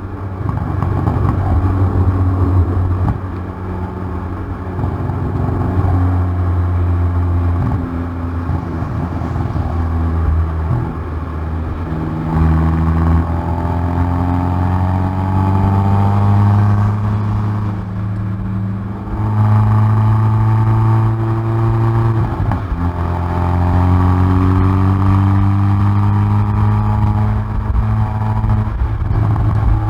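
Hyundai i30N Performance's turbocharged 2.0-litre four-cylinder at full throttle on track, heard through its exhaust at the rear bumper. The engine note climbs in pitch again and again as it pulls through the gears, with short breaks and dips between the pulls.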